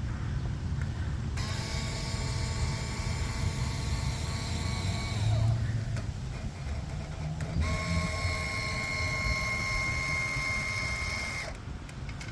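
The RC lawn mower's deck-height adjustment motor runs twice, each time for about four seconds with a pause of about two seconds between, making a steady whine of constant pitch as it moves the deck.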